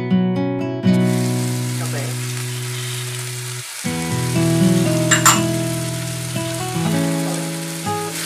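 Onion-tomato masala sizzling in hot oil in a metal wok as it is stirred with a wooden spatula, the sizzle starting about a second in, with a short sharp clink about five seconds in. Background guitar music plays throughout.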